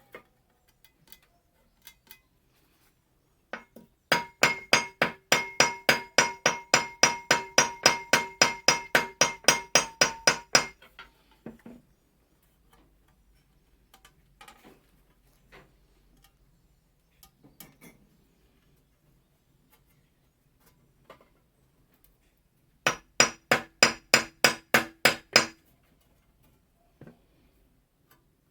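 A hammer peening the edge of an Austrian scythe blade: rapid ringing metal strikes, about five a second, thinning and drawing out the edge. A run of about six seconds, a pause with a few light taps, then a second shorter run near the end.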